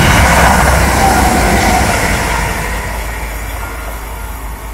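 Class 319 electric multiple unit passing close by on the rails. It is loud as it goes past, with a tone falling in pitch in the first two seconds, then fades steadily as the train runs away into the distance.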